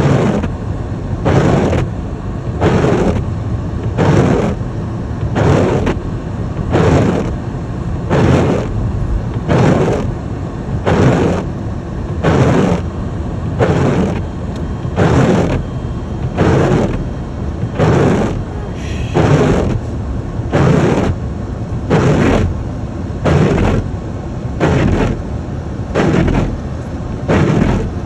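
Windshield wipers sweeping back and forth across snowy glass, heard inside the car: one swishing stroke about every second and a half, over a steady low rumble.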